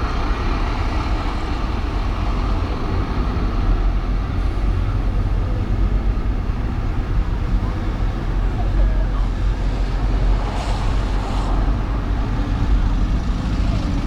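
City traffic and road noise from a car driving on downtown streets: a steady low rumble of engines and tyres, with a brief hiss about ten and a half seconds in.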